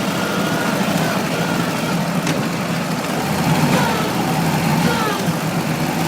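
Ural motorcycle engine running steadily at a low, even speed.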